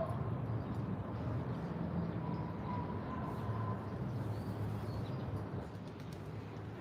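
City park ambience: a steady low rumble of distant traffic, with a faint held high tone a few seconds in.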